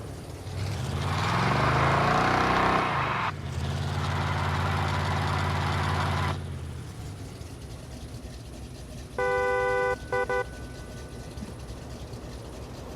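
Chevy 4x4 truck engine revving up and down, then holding loud and steady for a few seconds before dropping off. About nine seconds in, a vehicle horn sounds one long toot and then a short one.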